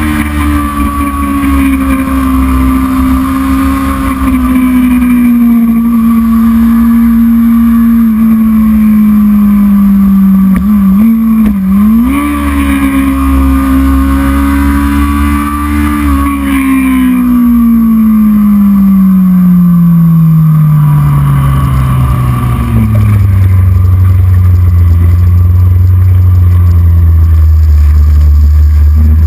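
Racing motorcycle engine running hard at high revs, with a brief break and jump in pitch about eleven seconds in, like a gear change. From about halfway the pitch falls steadily as it slows, then settles on a low steady note near the end.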